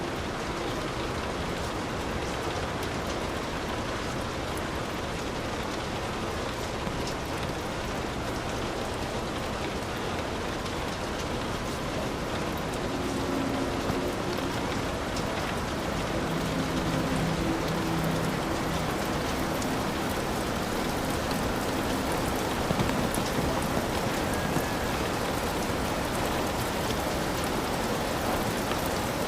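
Heavy rain falling steadily on a hut's roof, a dense, even hiss of drops.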